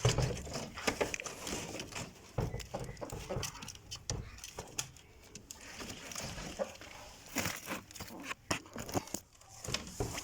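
Pigeons stirring in a nest close to the camera: irregular rustling of feathers and nest material with scattered clicks and knocks.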